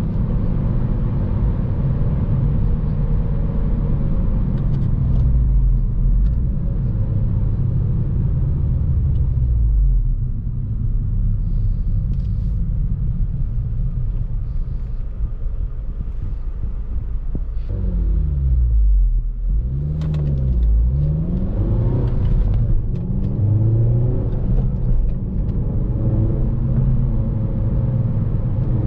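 2014 Honda Civic Si's 2.4-litre four-cylinder engine running under way with road noise, steady at first; from a little past the middle the revs drop and climb again several times as it is driven through the gears of its manual gearbox.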